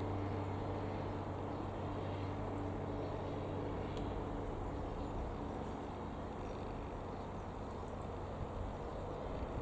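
Comco Ikarus C-42 microlight's single piston engine and propeller droning steadily, slowly growing fainter. Faint high chirps are heard near the end.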